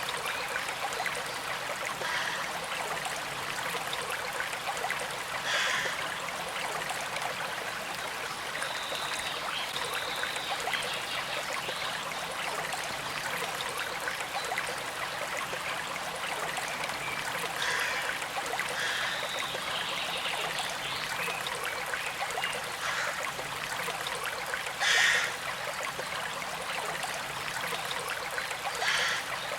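Small stream flowing and trickling steadily, with a few brief louder splashes, the loudest about 25 seconds in.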